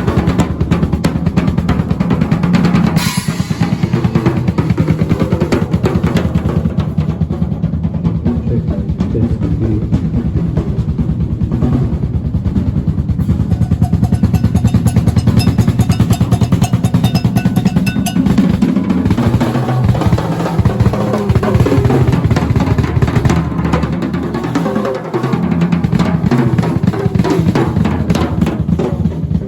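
Drum kit played solo in a large hall: fast, dense rolls and fills across snare, toms and bass drum, with a cymbal crash about three seconds in and sparser, more broken patterns in the last third.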